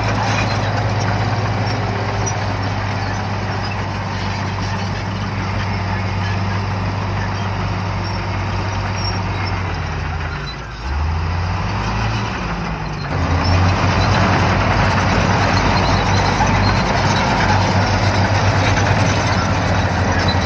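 Shantui bulldozer's diesel engine running steadily. About halfway through it dips briefly, its pitch sliding down and back up, then it runs louder and harder.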